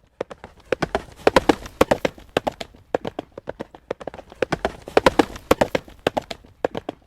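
Horse's hooves trotting on a hard road surface, a steady clip-clop of strikes. It grows louder in two stretches, about a second in and again about five seconds in.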